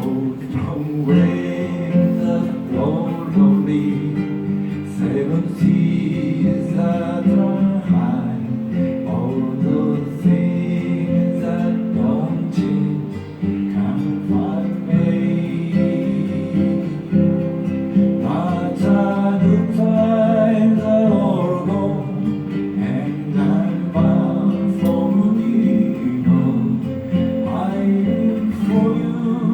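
Acoustic guitar strummed through an instrumental break in a folk song, with a melody line played over the chords.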